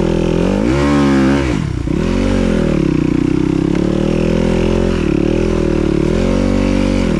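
Dirt bike engine under way on a trail, revving up about a second in, dropping off sharply just before two seconds, then rising and falling with the throttle.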